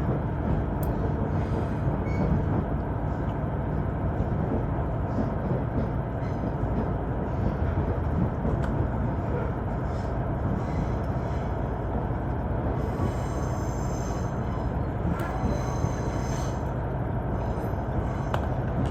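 Train running along the line: a steady rumble of wheels and rail noise, with a few faint high whines in the second half.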